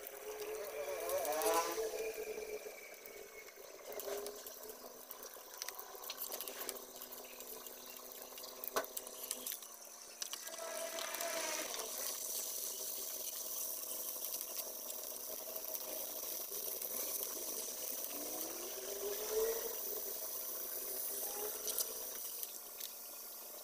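Squid frying in oil in a wok, a steady sizzle that grows louder about ten seconds in, with a metal spatula now and then clicking and scraping against the pan. A rising whine sounds a few times, loudest near the start.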